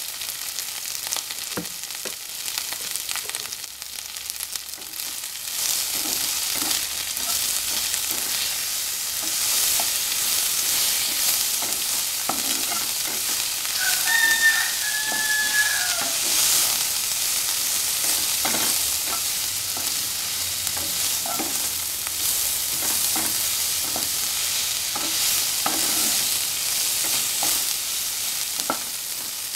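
Shredded banana flower frying in oil in a nonstick wok, sizzling steadily while a spatula stirs it with repeated scrapes and taps against the pan. A brief pitched call sounds in the background about halfway through.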